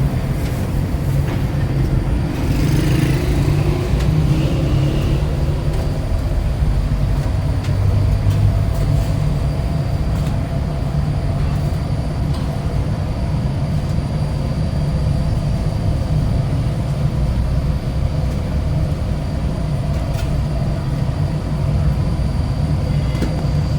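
A motor vehicle's engine running steadily, with an even low hum and no pauses.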